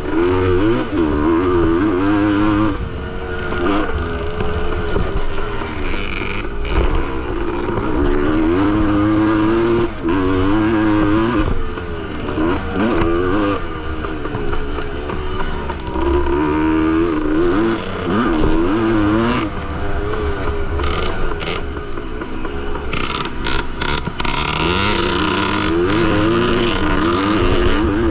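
1973 Yamaha MX250's two-stroke single-cylinder engine ridden hard around a motocross track, its pitch repeatedly climbing and falling with throttle and gear changes. A few sharp knocks come near the end.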